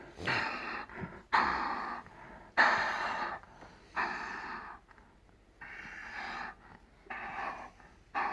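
A dog breathing hard after running, with loud noisy breaths about once a second, each lasting most of a second.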